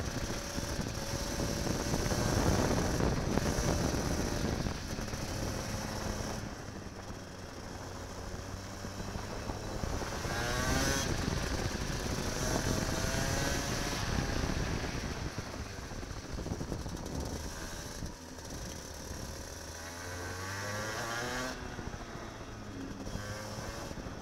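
Kart engine heard from an onboard camera on the kart, its revs rising and falling again and again through the laps, over a steady hiss.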